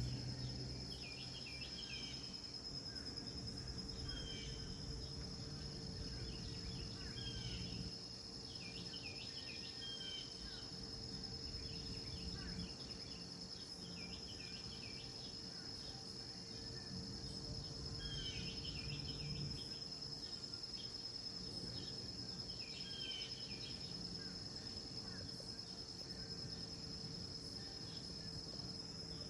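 Insects trilling in one steady high note, with a bird repeating short chirping phrases every couple of seconds, over a low background rumble.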